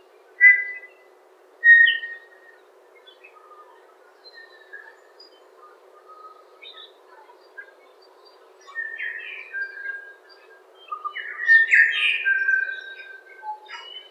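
Birds singing in the morning: two loud, clear whistled notes about half a second and two seconds in, then longer runs of varied, gliding song notes in the second half.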